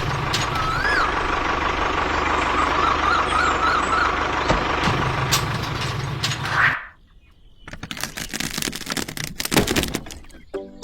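Small motor of a miniature DIY tractor running steadily with a hiss, cutting off suddenly about two-thirds of the way in. Scattered clicks and taps follow.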